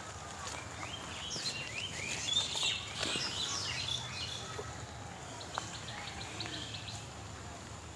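Small birds chirping: a flurry of short rising high calls in the first few seconds, then a quick run of about eight thin repeated notes later on, over a faint steady outdoor background.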